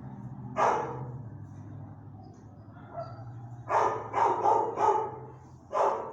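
Dog barking in a shelter kennel: one bark, then a quick run of four, then one more near the end.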